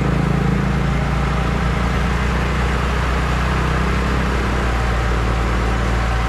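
Heavy earthmoving machine's diesel engine running steadily with a low, even engine note, its pitch shifting slightly about four and a half seconds in.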